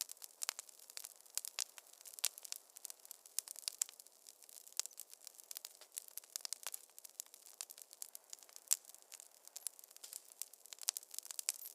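Wood fire crackling in a fireplace: a dense, irregular stream of sharp pops and snaps over a faint hiss, with no low rumble.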